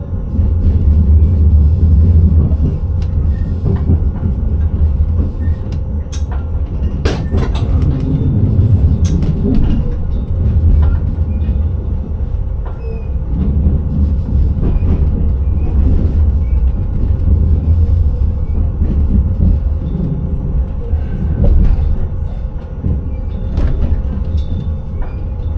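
Passenger train running on the rails, heard from inside the driver's cab: a steady low rumble with scattered sharp clicks and knocks from the wheels on the track, the strongest a short cluster about seven seconds in.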